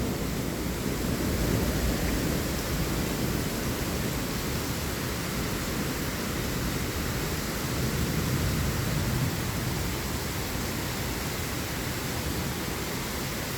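Heavy rain pouring down in a steady hiss during a thunderstorm, with a low rumble swelling briefly past the middle.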